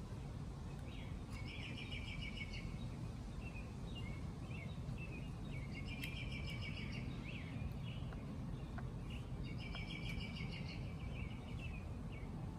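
A bird singing a short rapid trill of about a second, three times at intervals of about four seconds, with softer chirps between, over a steady low background rumble.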